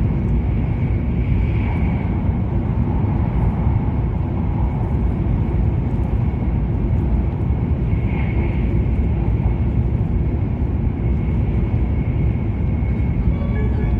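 Steady low rumble of an E7 series Shinkansen running at speed, heard from inside the passenger cabin. Music tones come in near the end.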